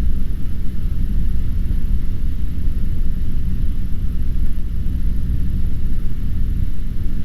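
Cessna 150's piston engine and propeller droning steadily inside the cockpit on approach, a low, unchanging rumble.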